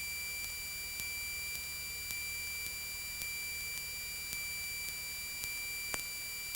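A steady high-pitched electronic tone with faint clicks about twice a second: electrical noise on the Cessna 172's cockpit intercom audio while no one is transmitting or talking.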